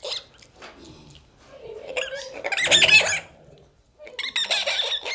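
High-pitched animal calls: a short cry at the start, high wavering cries about two seconds in, then a harsher run of squawking calls from about four seconds on.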